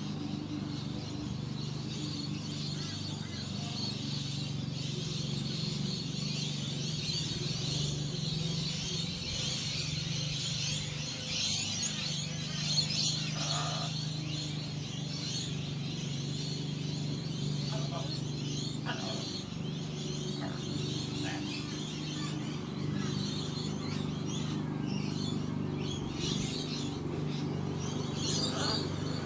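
Birds chirping and twittering continuously, over a steady low hum.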